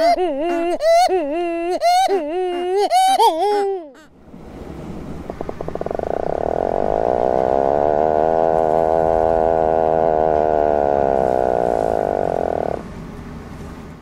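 Great shearwater calling: a quick run of wavering, nasal calls for about the first four seconds. Then an Atlantic puffin gives one long, low, rattling call, rising slightly in pitch and falling again, which stops abruptly about a second before the end.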